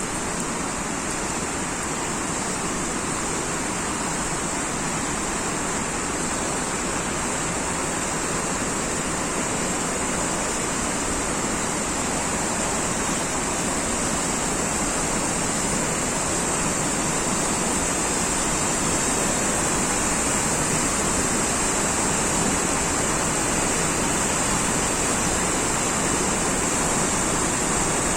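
Steady rushing water, with a constant high hiss above it, holding an even level throughout.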